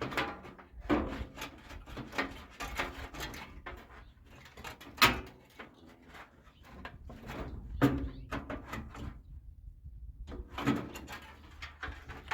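Irregular knocks, clanks and rattles of the metal housing and parts of a convection-microwave oven being handled during disassembly, with two sharp louder knocks about five and eight seconds in and a brief lull near the end.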